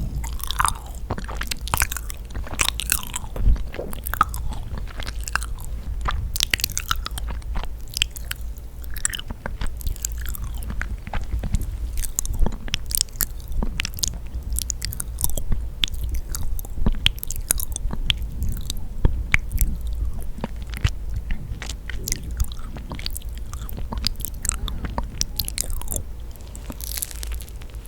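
Close-miked chewing and biting of yakgwa, sticky honey-soaked fried Korean cookies, with a continuous run of sharp, irregular mouth clicks and smacks.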